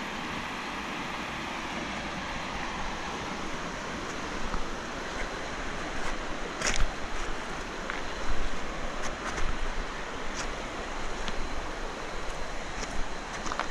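Steady rush of river water and wind, with scattered small clicks and knocks from about four seconds in.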